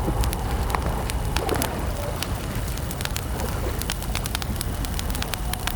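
Wood campfire crackling, with frequent sharp pops and snaps over a low rumble of burning, and a faint steady high chirring of crickets.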